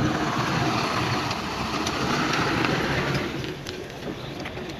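Heavy earthmoving machinery running, a steady diesel engine rumble with scattered faint clicks, easing off a little about three seconds in.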